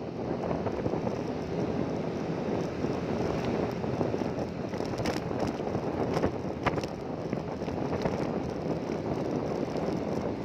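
Steady rush of wind buffeting the microphone while travelling, with a few short clicks in the middle.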